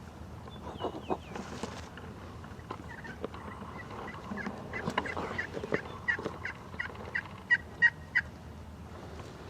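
Turkey yelping: a run of about a dozen short, evenly spaced yelps, about four a second, growing louder and stopping about eight seconds in, after a few scattered calls.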